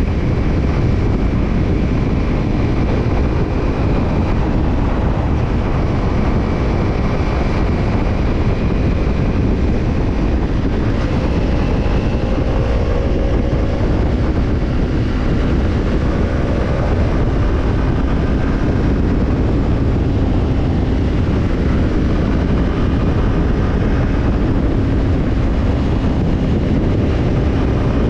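Kawasaki Ninja 250's parallel-twin engine running through a BEET Nassert Evolution Type II titanium slip-on muffler while the bike is ridden, under heavy wind noise on the microphone. The engine note rises and falls gently with the throttle.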